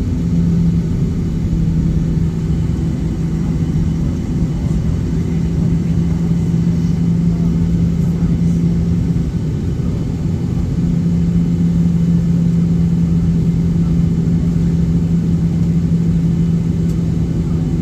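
Steady rumble inside the cabin of a Boeing 737-800 with its engines running, under a low, steady hum that drops out briefly about halfway through.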